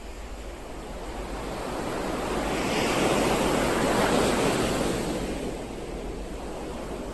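Ocean surf: one wave builds in a rising rush of noise, is loudest near the middle, then falls back to a steady, softer wash.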